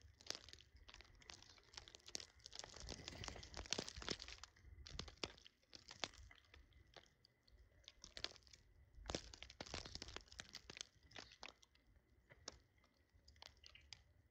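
Birds pecking at and cracking seed: a fast, irregular run of small, faint crunches and taps, busiest in two spells, about three seconds in and again about nine seconds in.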